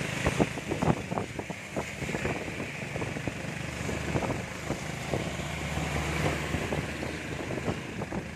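Heavy rain, with a vehicle's engine running steadily underneath and many sharp taps of raindrops striking close by.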